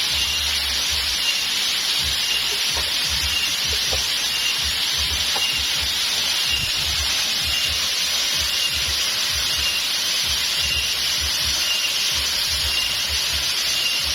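Flowing water rushing steadily, with a faint high-pitched chirp repeating about once a second.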